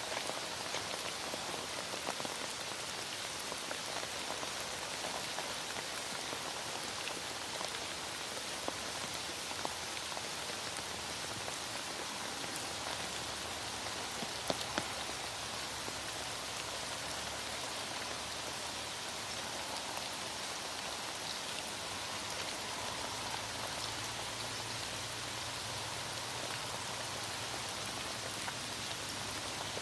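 Heavy rain falling steadily: a dense, even hiss with scattered drop ticks and a couple of louder drop clicks about halfway through.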